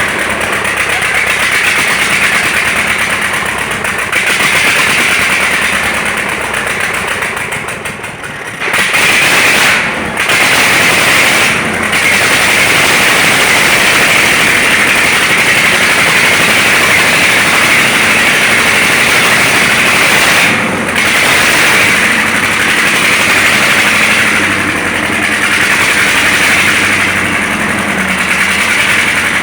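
DT-75 crawler tractor's engine running steadily just after a major overhaul, dipping briefly in level a few times.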